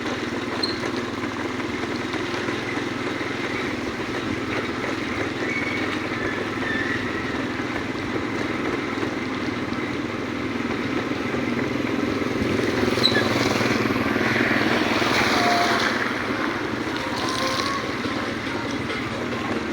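Motorcycle on the move: steady engine and road noise, growing louder for a few seconds about two-thirds of the way through, then easing.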